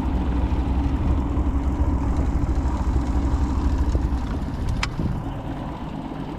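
Motorboat engine running steadily, with a single sharp click about five seconds in; the engine sound drops a little near the end.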